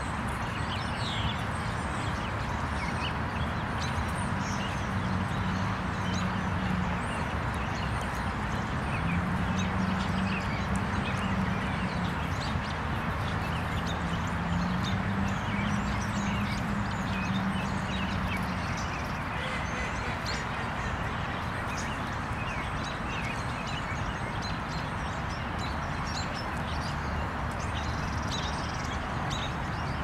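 Small birds chirping in short, scattered calls over a steady outdoor background hiss, with a low hum that swells and fades a few times.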